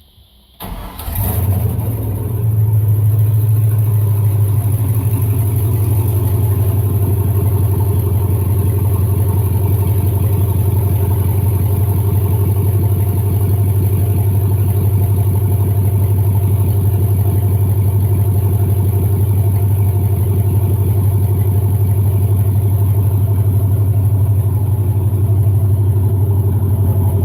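1999 4.8-litre GM LS V8, newly swapped into a 1978 Ford F-150, starting up for the first time: it fires about a second in and settles into a steady idle.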